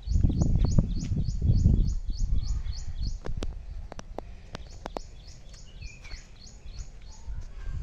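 A small bird chirping over and over, a short high-pitched chirp about three times a second. A low rumble on the microphone dominates the first two seconds, and a few sharp clicks come in the middle.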